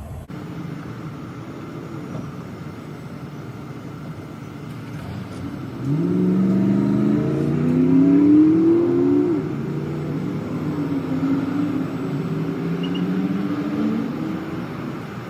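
Car engine pulling away and accelerating: a steady low hum until about six seconds in, then a rising engine note that falls back about three seconds later and carries on at speed.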